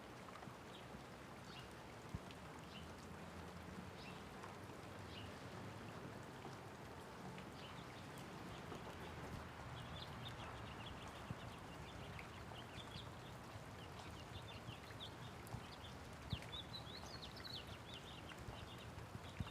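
Light rain falling steadily, with a few sharper drop ticks, while small birds chirp in quick, high notes that grow busier in the second half.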